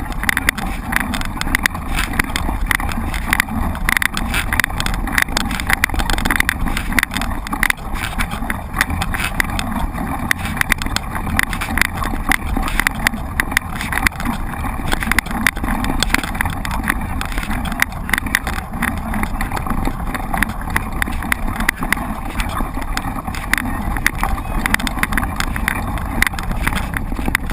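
Mountain bike ridden over rough ground: continuous rattling and crunching from the bike, over a steady wind rumble on the microphone.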